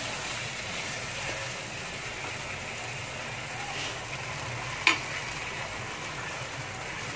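Marinated chicken pieces sizzling gently in a wok over low heat while a spatula stirs and turns them. A single sharp tap comes about five seconds in.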